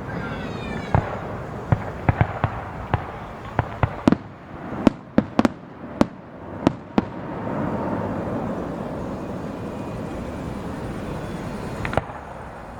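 Aerial fireworks: a whistling shell falling in pitch, then a quick, irregular volley of sharp bangs, about a dozen in six seconds. After that comes a steady wash of noise for several seconds, which drops away near the end.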